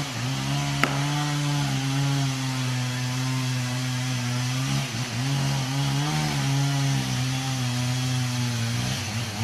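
Gas chainsaw engine revving up and running at a steady high speed, its pitch dipping briefly about halfway through before picking up again. A sharp click sounds about a second in.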